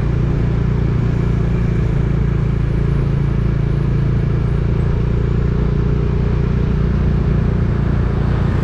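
Motor vehicle engine running at a steady, even pitch, with continuous road noise, as if heard from on board while driving.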